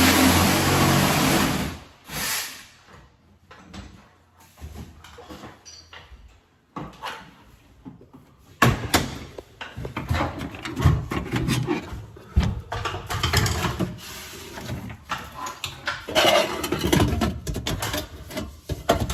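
Hands-on work on sheet-metal ductwork and tools: a loud rushing noise for about the first two seconds, then after a quieter stretch a run of irregular clicks, knocks and rustling of metal and tools being handled.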